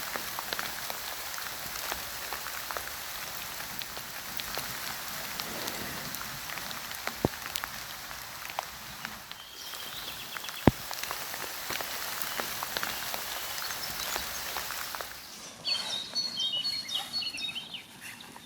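Steady rain-like hiss with scattered sharp drops and clicks, broken by a short bird call about ten seconds in. About fifteen seconds in the hiss cuts off, and a songbird sings a quick run of high chirps.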